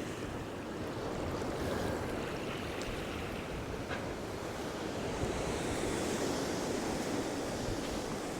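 Strong, steady wind at the sea shore, rushing and buffeting the microphone with a low rumble, with the sea's surf beneath it.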